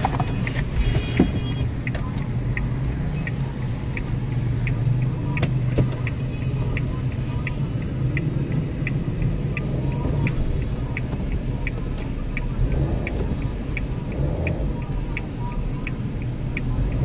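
Suzuki Alto's 660 cc three-cylinder engine idling, heard from inside the cabin as a steady low drone. A light, even ticking, about three a second, runs along with it.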